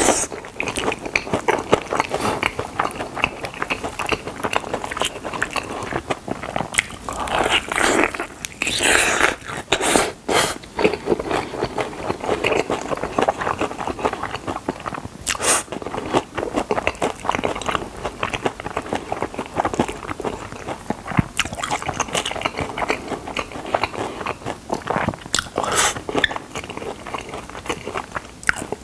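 A person biting into and chewing chicken drumsticks, with many irregular crunches and crackles.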